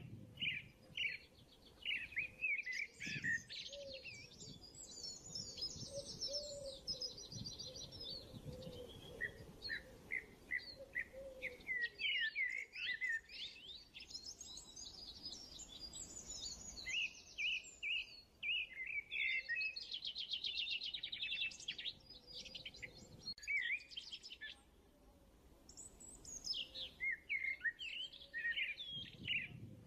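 Small songbirds chirping and twittering throughout, in clusters of quick repeated chirps and fast high trills with short lulls between them.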